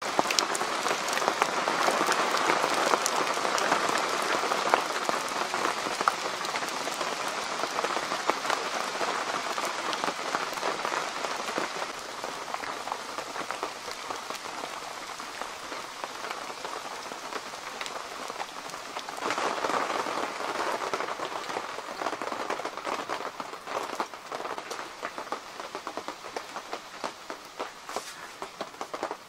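Steady rain, countless drops striking surfaces. It is heaviest through the first dozen seconds, eases, then swells again briefly about two-thirds through.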